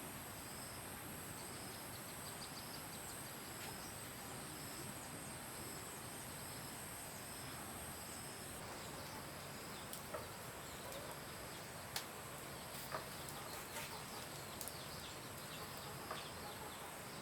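Insects droning in high steady tones, with a short chirp repeating every half second or so; the drone stops about halfway through. Scattered light clicks and taps follow in the second half.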